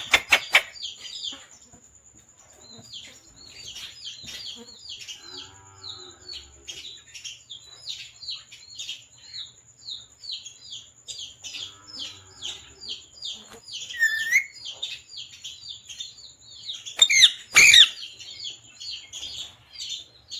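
Pet parrot giving a long run of short, high chirps, about two or three a second, with a louder squawk near the end.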